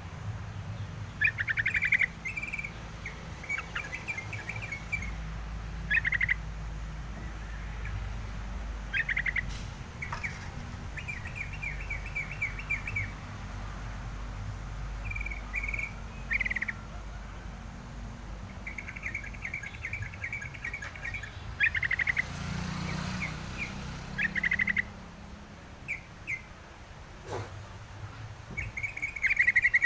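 Crucukan ngalas songbird calling: repeated short chirps and quick rattling trills of fast-repeated notes, in separate phrases every second or two.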